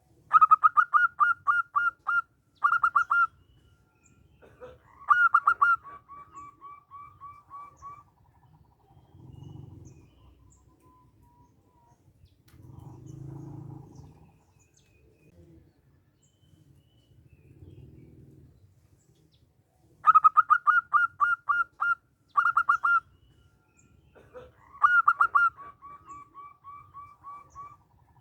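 Zebra dove (perkutut) singing: a burst of quick, clipped cooing notes, then a run of softer, lower notes that trails off. The phrase comes twice, about twenty seconds apart.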